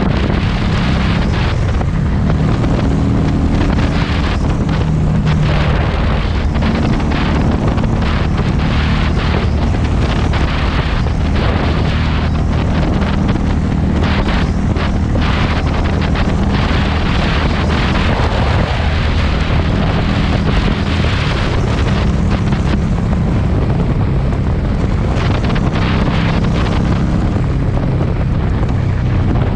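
Heavy wind buffeting on the microphone over the running Harley-Davidson Street 500's V-twin engine and exhaust while riding. The engine note steps up and down several times with changes in speed.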